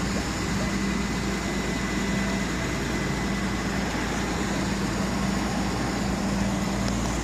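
A motor vehicle's engine idling steadily, a constant low hum with no revving.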